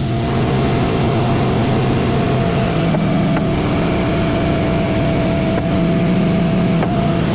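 Semi-truck diesel engine running steadily at low revs, with a constant higher whine over it and a few light clicks.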